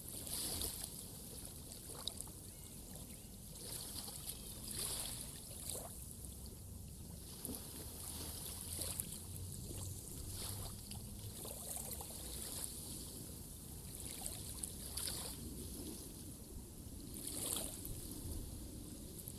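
Water splashing and lapping, swelling and easing irregularly every second or two.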